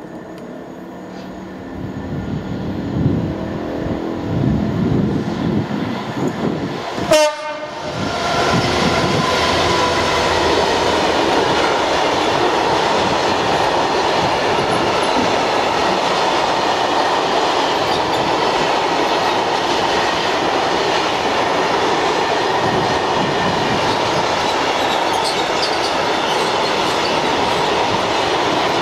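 A Class 66 diesel locomotive approaches and passes, its two-stroke V12 engine growing louder over the first seven seconds. A brief sharp burst comes about seven seconds in. From then on a long rake of freight box wagons rolls past, a loud, steady rumbling noise of wheels on rail.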